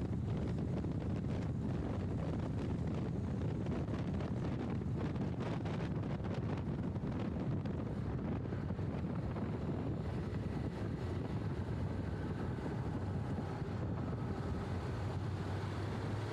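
Steady wind buffeting on a motorcycle rider's microphone while riding, with the low rumble of the Honda NC750X's parallel-twin engine and the road underneath it. The wind noise is heavy: the microphone picks up far too much of it.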